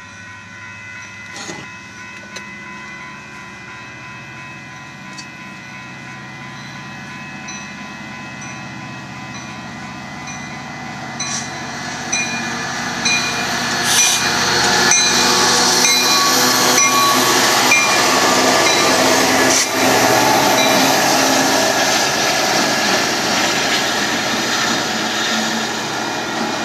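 Approaching Union Pacific freight train: the locomotives and rolling train grow louder over the first half, then stay loud as the lead locomotive draws near. A few sharp clicks are heard along the way.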